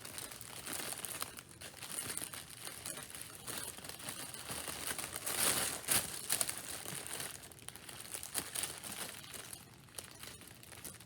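Small plastic bags of diamond-painting drills crinkling and rustling as they are handled, with a louder stretch of crinkling about five to six seconds in.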